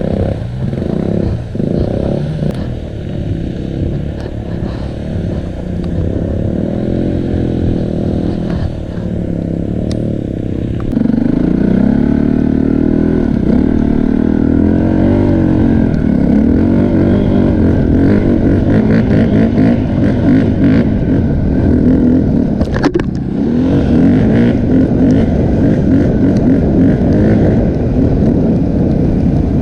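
Enduro motorcycle engine running and revving up and down, getting louder about a third of the way in as it is ridden harder. A short sharp knock comes near the end.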